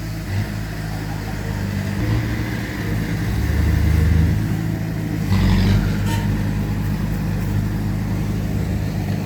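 Heavy diesel engines of earthmoving machinery running steadily. The engine note swells twice under load, around three to four seconds in and again just after five seconds, where a short noisy burst comes in with it.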